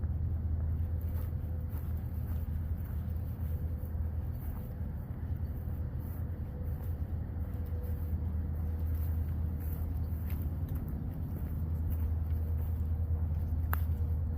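Low, steady engine rumble with a faint, steady hum above it, and a sharp click near the end.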